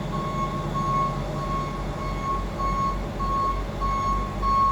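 Reversing alarm beeping steadily, about one and a half beeps a second, over a diesel engine idling with a low throb.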